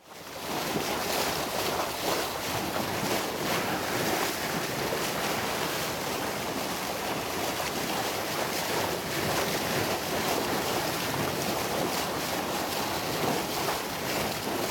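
Steady wash of sea surf with wind buffeting the microphone, coming in suddenly out of silence.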